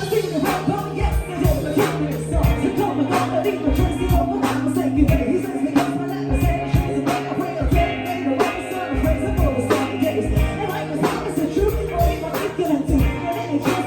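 Band music with a steady drum beat over a held bass line, from a band's cover of an R&B pop song.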